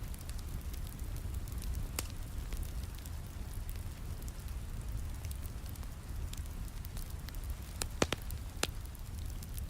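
Wood fire crackling in a fireplace, with a few sharp pops, one about two seconds in and a quick cluster near the end, over the steady low rumble of rain.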